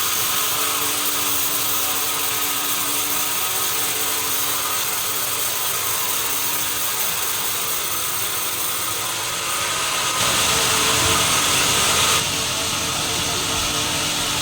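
Sawmill machinery running steadily, a dense mechanical noise with a few held tones. Between about ten and twelve seconds in it grows louder and rougher, then drops back.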